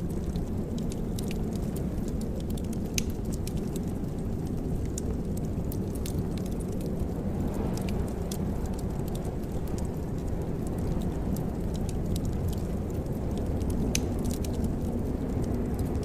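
Wood fire burning in a fireplace: a steady low rumble of the flames with sharp, scattered crackles and pops throughout.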